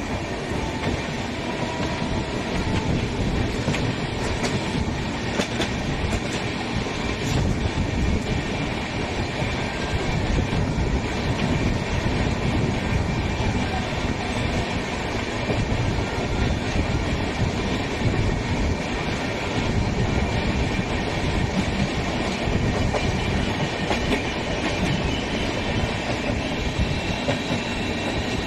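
Indian Railways express train pulling into the station, its coaches rolling past with the steady clatter of wheels on the rails.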